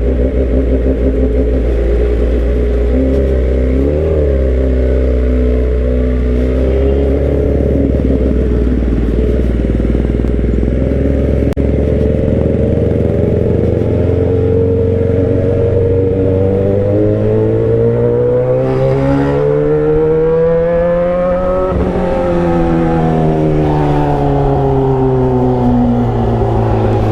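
Motorcycle engine running with its muffler removed, exhausting through just the bare pipe: loud and steady at first. About two-thirds of the way through the revs climb for several seconds, then fall away again.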